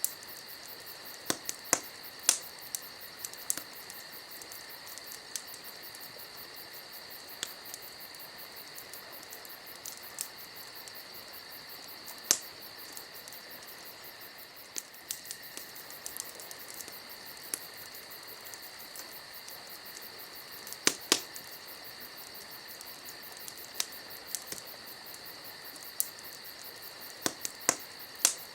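Wood campfire crackling, with irregular sharp pops, the loudest a close pair near the end, over the steady trilling of crickets.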